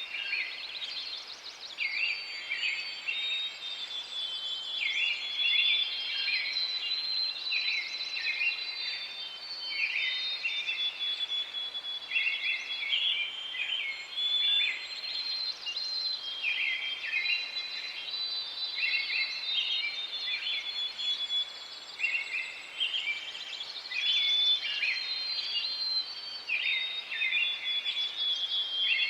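Forest ambience: songbirds singing, short chirping phrases coming one after another every second or so, over a soft steady background hiss.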